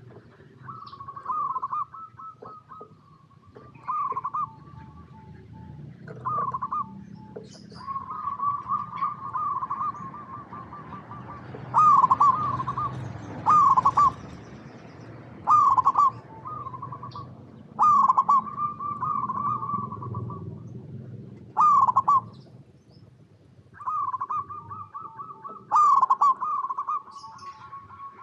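Zebra doves cooing: repeated bouts of quick, stuttering coos around one pitch, coming every second or two, over a low rumble.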